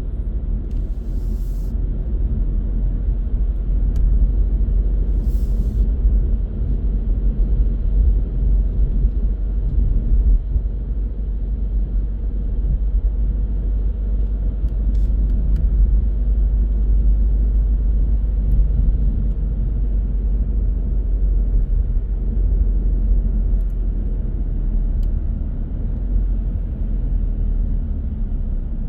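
A car driving along at road speed, with a steady low rumble of tyres and engine. There are two short hisses about one and five seconds in.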